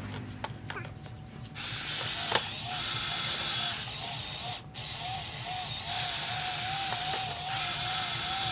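Remote-control toy dump truck's small electric motors and plastic gearing whirring in stop-start bursts, with a wavering whine underneath.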